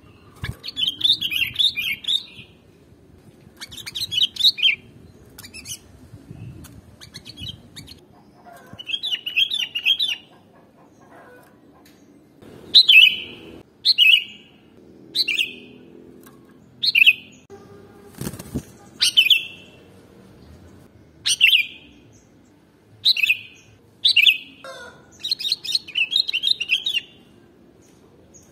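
Sooty-headed bulbul (kutilang) calling. There are bursts of quick chattering notes at first, then a run of short calls falling in pitch about every second or two, and more chatter near the end.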